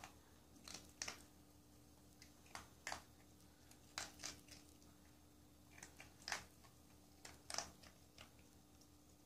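A dog chewing dry kibble: short, sharp crunches, often two close together, at irregular gaps of a second or two.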